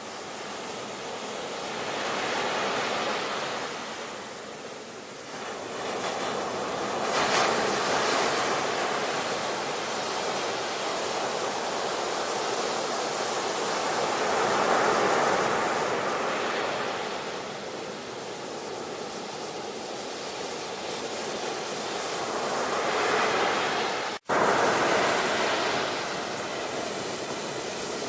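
Ocean surf: waves breaking and washing in, the rush of water swelling and easing every several seconds. About three-quarters of the way through the sound cuts out for a split second and comes straight back.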